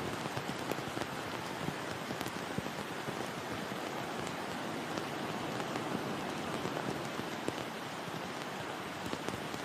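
Heavy rain pouring down steadily: an even hiss with scattered sharp ticks of drops striking.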